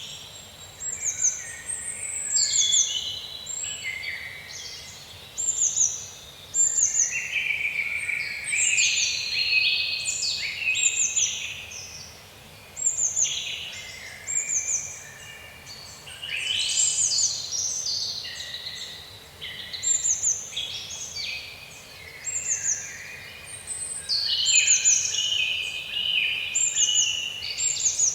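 Several songbirds singing together in woodland, overlapping phrases with one bird repeating a short high descending phrase every second or two, over faint steady background noise.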